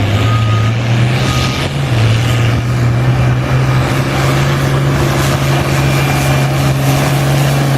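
International Harvester 966 farm tractor's engine running hard under load while pulling the weight sled: a loud, steady heavy drone that sags briefly in pitch about two seconds in, then holds.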